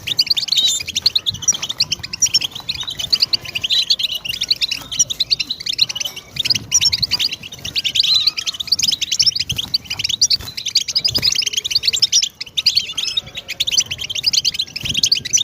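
European goldfinch singing: a continuous, fast twittering song of high chirps and trills without a pause.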